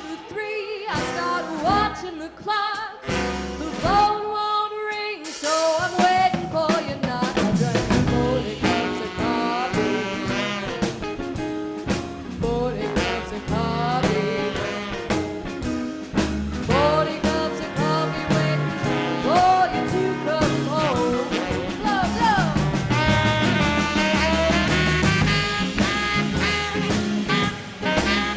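Live swing/jump-blues band with saxophones, trumpet, trombone, guitar, upright bass and drums playing an R&B number. The first five seconds or so are sparse, with short stop-time hits, and then the full band comes in and plays on.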